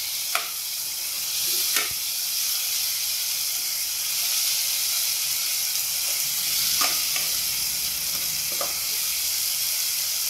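Tomato and spice masala sizzling in oil in a nonstick kadai, a steady hiss, with a few sharp clicks of the spatula against the pan as it is stirred.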